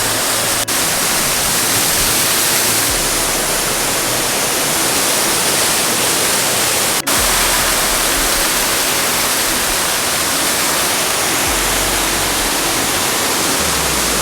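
Waterfall pouring, a loud, steady rush of falling water, briefly broken twice by cuts.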